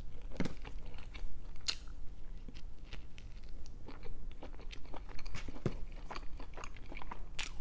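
Close-up eating sounds: chewing with irregular wet clicks and crunches, from a mouthful of breakfast food (hash browns, beans, toast).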